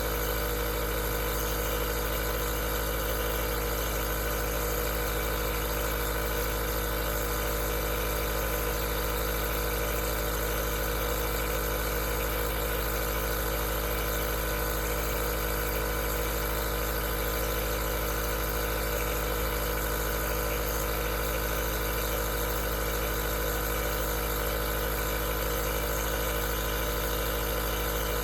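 Aerosol nebulizer's compressor running steadily, a constant hum and buzz with a hiss of air, unchanging in level.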